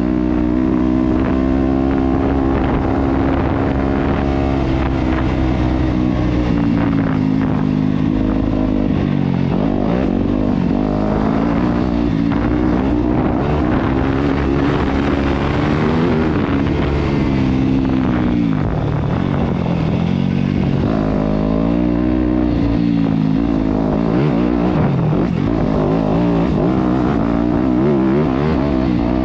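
Yamaha YZ250F four-stroke single-cylinder dirt bike engine running under way, its revs repeatedly dropping and climbing again as the throttle is rolled off and on.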